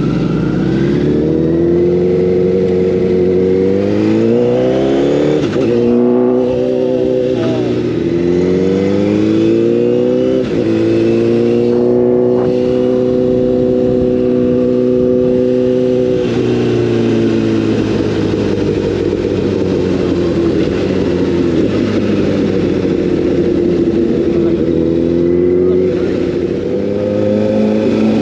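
Sport motorcycle engine under way at road speed: revs climb and drop back twice with upshifts, hold steady for a few seconds, then ease off.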